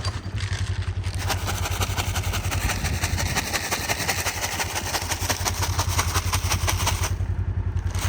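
Engine of an open, doorless utility vehicle running while driving: a low hum with a fast, even pulse under a steady hissing rush.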